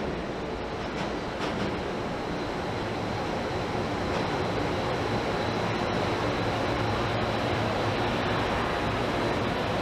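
Jet airliner engines, a steady roar with a faint high whine, building slightly about a third of the way in.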